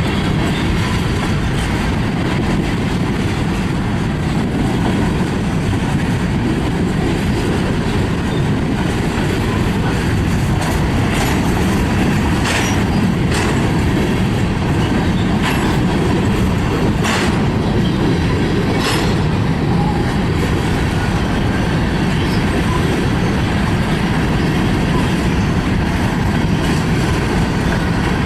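Freight train rolling past, a steady heavy rumble of steel wheels on rail, with a handful of short, sharp high sounds from the wheels and cars in the middle stretch.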